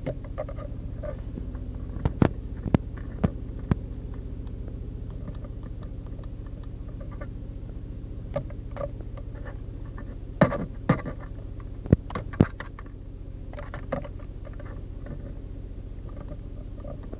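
Small 1.2-litre four-cylinder car engine idling steadily, with several sharp clicks or taps in two short clusters, in the first few seconds and again around the middle.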